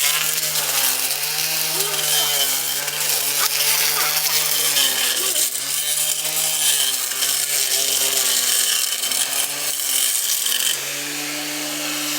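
Blender motor on a homemade weed trimmer, running on medium and whining over a noisy thrash as its improvised blade chops weeds. The pitch sags and recovers about once a second as the blade bites and clears. Near the end it spins free at a steady, higher pitch.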